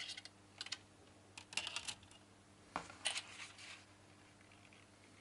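Light clicks and clatter of small objects being handled, in a few short clusters, over a faint steady low hum.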